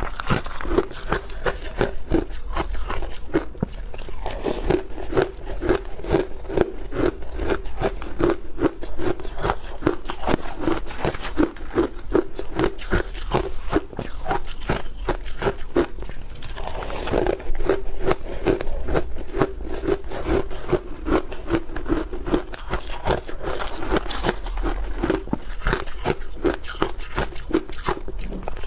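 A person biting and chewing hard block ice, with dense crunching in a steady chewing rhythm throughout.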